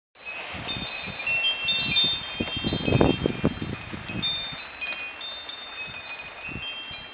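Wind chimes ringing in the storm wind, many metal tones overlapping, with low gusty rumbles loudest about two to three seconds in.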